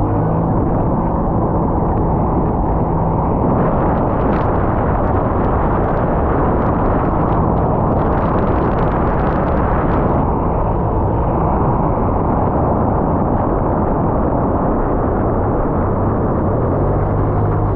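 Sea-Doo jet ski running steadily under way, its engine and water noise mixed with heavy wind rumble on the action camera, with scattered sharp crackles in the middle stretch.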